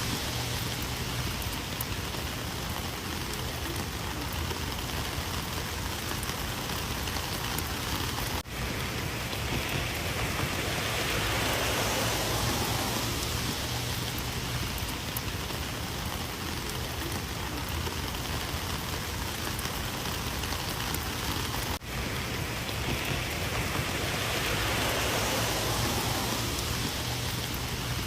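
Heavy rain falling steadily, an even hiss of drops with slow swells in intensity. It cuts out for an instant twice.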